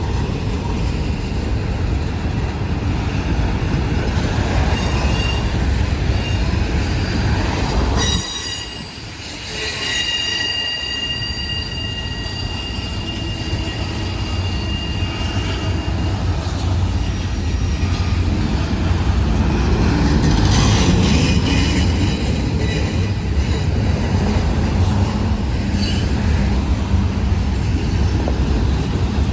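Union Pacific freight train rolling past, its cars rumbling steadily over the rails. The rumble dips briefly about eight seconds in, then steel wheels squeal on the rail with high ringing tones for several seconds.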